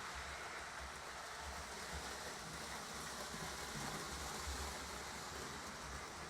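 Lionel model trains running on the layout's track: a steady motor whir and wheel rumble on the rails, a little louder in the middle as a train passes closer.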